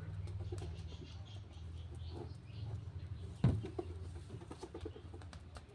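Pet bird cooing softly with low-pitched calls, with a single sharp tap about three and a half seconds in.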